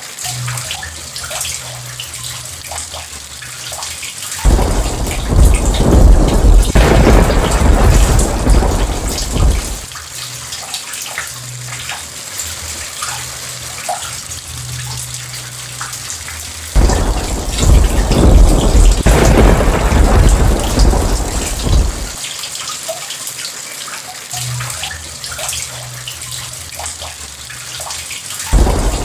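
Steady rain falling, with thunder rolling in three times: suddenly about four seconds in, again just past the middle, each rumble lasting about five seconds before fading back to the rain, and once more right at the end.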